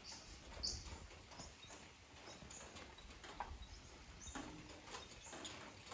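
Faint outdoor ambience with a few short, high bird chirps spread through it over a low, steady hush.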